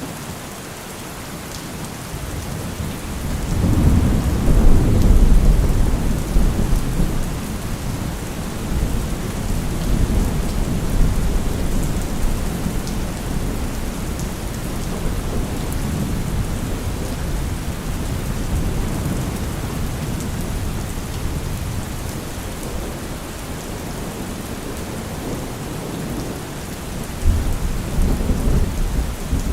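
Steady heavy rain with thunder: a long low rumble builds a few seconds in and rolls on for several seconds, and a second rumble comes near the end.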